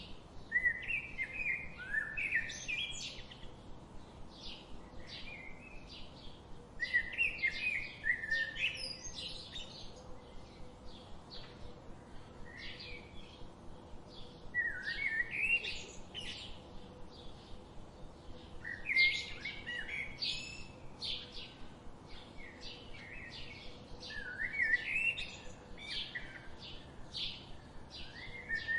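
Wild songbirds: a warbling song phrase of a second or two repeats every few seconds, and a steady run of short chip notes fills the gaps between phrases.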